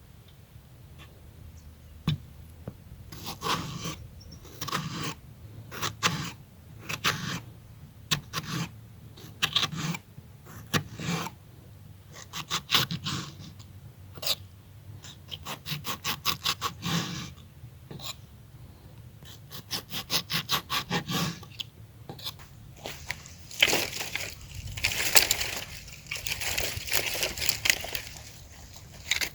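Hand food preparation: repeated short bursts of scraping and cutting, some as quick runs of several strokes, with a longer scraping, rustling stretch near the end.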